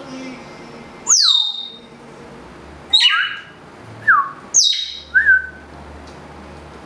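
African grey parrot calling: about five short, loud whistles and squawks, some sweeping sharply down in pitch and some rising to a held note.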